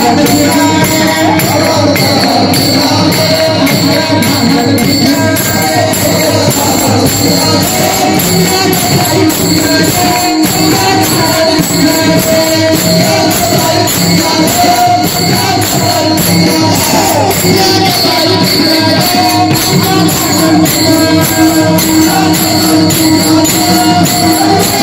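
Devotional music led by pakhawaj drumming, with jingling metal percussion keeping a steady fast beat and a sustained melody line above it.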